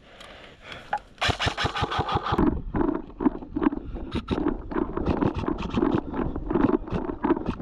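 Airsoft electric rifle firing a rapid full-auto burst starting about a second in, followed by a continuing rhythmic clatter of quick clicks.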